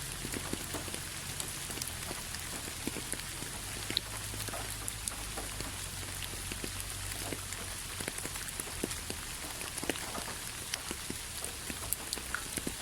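Steady rain falling on a surface: an even hiss with many separate drops tapping at irregular moments.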